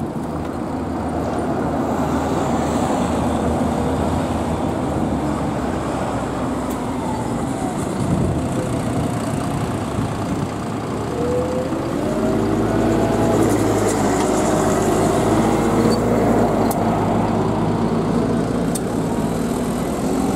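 A motor vehicle running, a steady rumble that settles into a steadier low hum about two-thirds of the way through.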